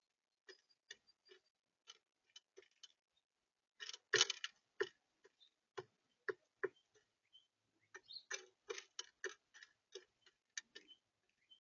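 Birds pecking at seed on a bird feeder close to the microphone: irregular sharp taps and clicks, with a dense loud cluster about four seconds in and a quick run of taps near the end.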